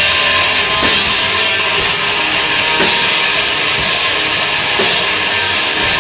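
Heavy rock music with distorted electric guitars and a drum kit, played loud, with a heavy accent about once a second.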